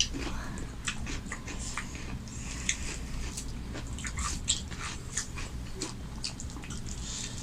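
A person chewing and eating food close to the microphone: many soft, irregular wet mouth clicks and smacks over a low steady hum.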